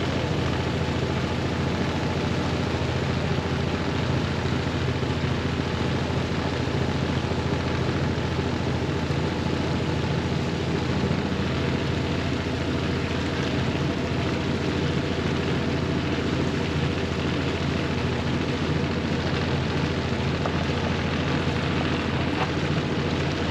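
Engine of a small boat running steadily under way, a constant low hum with a wash of noise over it.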